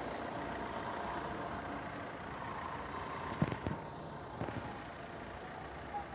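ZET Končar tram running along the street: a steady rumble with a faint whine, and a few sharp clicks about three and a half to four and a half seconds in.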